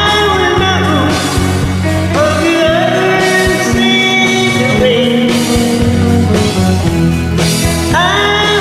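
Rock song playing loudly: a band with singing, guitar and drums.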